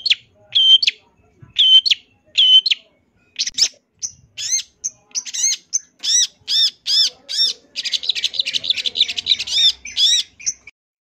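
Long-tailed shrike (cendet) singing: a string of short, sharp chirped notes that speeds up into a rapid run and then a dense trill about eight seconds in, breaking off shortly before the end.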